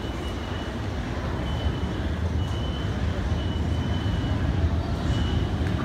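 Keikyu 1500-series four-car electric train pulling into the platform at low speed: a low rumble of wheels and running gear that grows louder as it approaches, with a thin high squeal coming and going.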